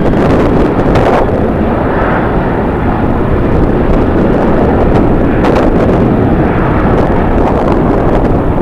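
Strong wind buffeting the microphone: a loud, steady rumble with a few brief gusty thumps.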